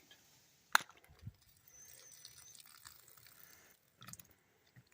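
Quiet handling of canned mushroom pieces for a meatloaf: a sharp click about a second in, a soft knock, then a faint steady hiss for about two seconds and a few small clicks near the end.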